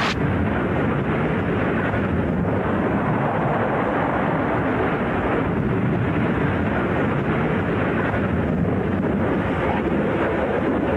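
Airplane noise: a steady, even rush of sound that starts abruptly and holds level without changing.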